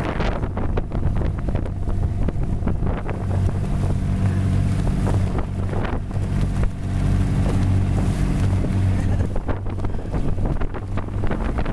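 Boat engine running steadily at an even pitch, with wind buffeting the microphone and splashing water over it.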